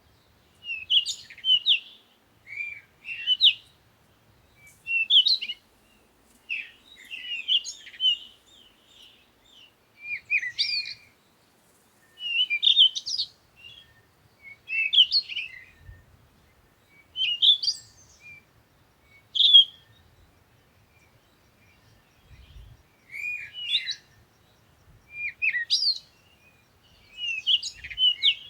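Small bird chirping and twittering: short, high phrases of quick chirps, one every second or two, with a pause of about two seconds past the middle.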